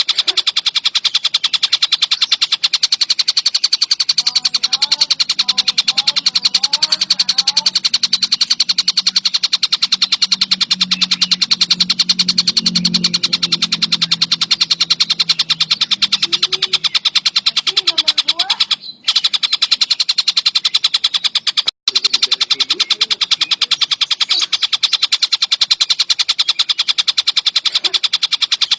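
Collared kingfisher (tengkek buto) calling in a fast, unbroken run of repeated sharp notes, broken only by two brief cut-outs about two thirds of the way through.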